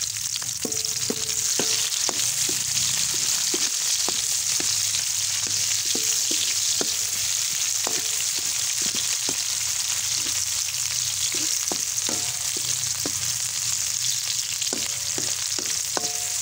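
Sliced onion and garlic sizzling in hot oil in a steel wok, with steady hiss. A spatula scrapes and knocks against the pan many times as they are stirred, and some knocks make the wok ring briefly.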